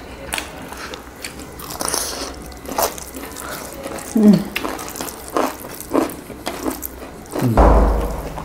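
Close-up eating sounds: people biting and chewing food, with a string of wet, clicky mouth smacks. A short vocal "mm" comes about four seconds in, and a loud low thud near the end.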